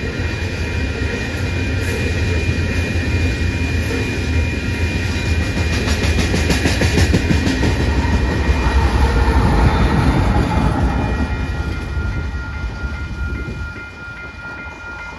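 Union Pacific freight train rolling past: steel wheels clattering on the rails over a deep rumble. It swells as the rear diesel locomotive goes by, then drops away suddenly near the end as the train moves off. A steady high ringing tone runs underneath.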